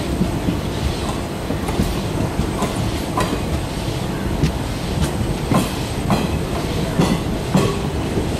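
Railway passenger coaches rolling past close by, their wheels clattering over the rail joints in irregular clicks over a steady rumble. There is a brief high wheel squeal a little past halfway.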